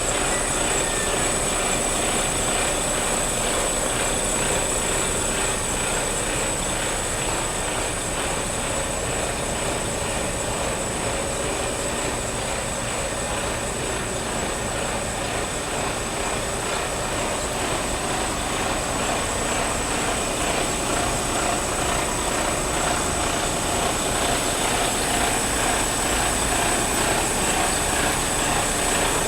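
Mercedes-Benz Arocs 3243 concrete mixer truck's diesel engine running steadily at idle.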